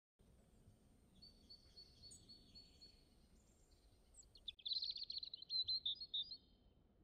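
A songbird chirping: a faint, thin whistled note early on, then about four and a half seconds in a louder burst of rapid chirps running into a short trill, over faint room hiss.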